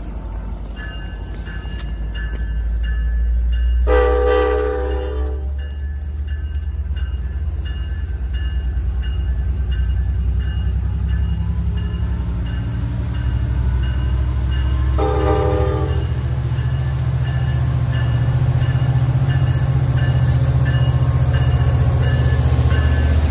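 Metra commuter train's diesel locomotive sounding its horn twice as it approaches, a chord of about a second and a half about four seconds in and a shorter blast some eleven seconds later. The low rumble of the engine and wheels builds as the locomotive draws level and passes near the end, while a crossing bell rings in a steady rhythm.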